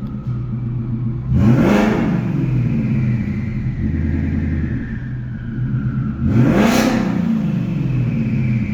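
Twin-turbocharged 2019 Ford Mustang engine heard from inside the cabin, with the OEM active exhaust valves closed in quiet mode. It runs steadily and is blipped twice, each rev rising and falling in about a second, with a high hiss at each peak.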